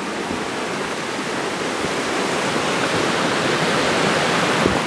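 Mountain creek water rushing and falling steadily, a dense even roar of water.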